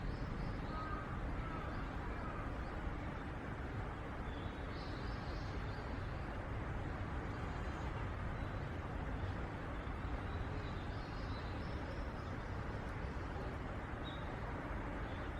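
Steady low outdoor background rumble with faint, short, high bird chirps about five seconds in, again about eleven seconds in, and a few times near the end.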